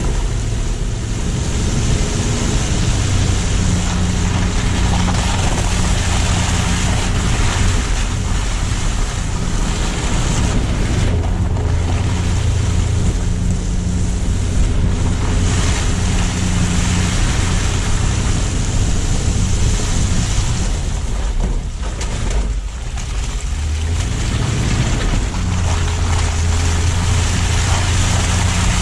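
Car driving on roads after a snowstorm: a steady hiss of tyres on the road and wind on the microphone over a low engine hum, easing briefly about three-quarters of the way through.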